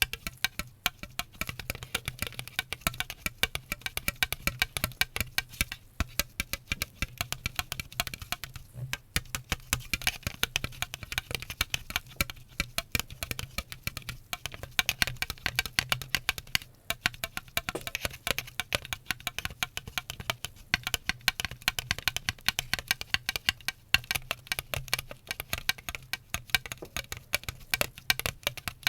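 Fast, continuous tapping and clicking, many small taps a second, as in an ASMR tapping trigger. A steady low hum runs underneath.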